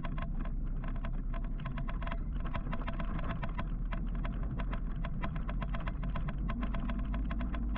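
Ride noise on an electric motorcycle: a steady low rumble of wind and road with no engine note. Over it runs a fast, even ticking rattle, several clicks a second.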